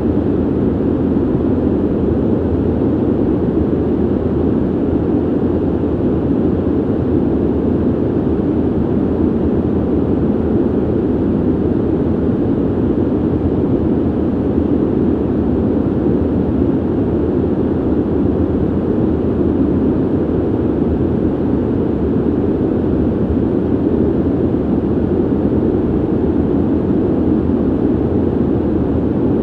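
Steady ventilation noise: an even, low rushing of air with most of its weight around the low mids and little hiss, unchanging throughout.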